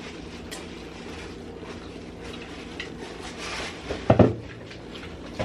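Eating utensils clicking against a bowl of instant ramen, with a louder double knock about four seconds in, over a steady low hum.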